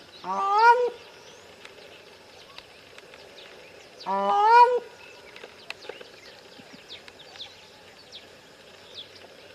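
Grey crowned crane giving two calls about four seconds apart, each a short low note that jumps up into a higher, rising honk. Faint high chirps run underneath.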